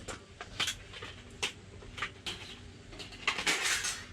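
Light metallic clicks and clinks of a thin-plate folding fire stand's metal panels being handled and fitted together, a handful of separate knocks, with a short hissing rustle near the end.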